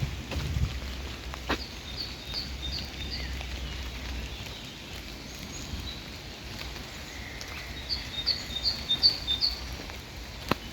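A songbird singing two short phrases of quickly repeated high notes, one about two seconds in and one near the end, over a steady hiss of light rain. A low rumble fades out about four seconds in, and there are a couple of sharp clicks.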